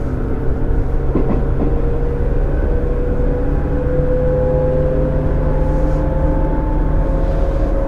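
Running sound of a JR 205 series 0 subseries electric train with field-added excitation control: a motor whine rising slowly in pitch as the train gathers speed, over a steady low rumble. A single knock comes about a second in.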